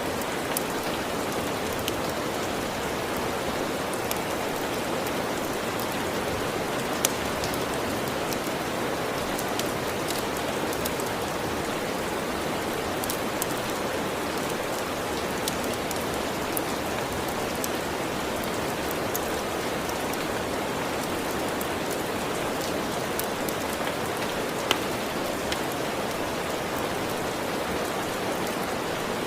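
Steady rain, with scattered sharp crackles from a wood fire; the loudest pops come about seven seconds in and near the end.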